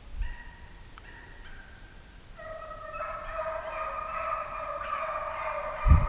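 Hounds baying on a deer chase, several long overlapping calls that grow louder about two and a half seconds in. A low thump near the end.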